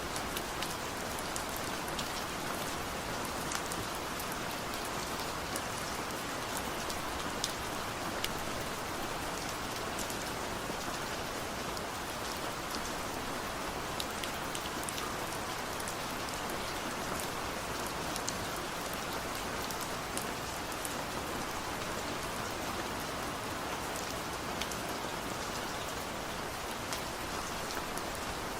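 Steady rain falling, a constant hiss with many small drops ticking and pattering on a surface.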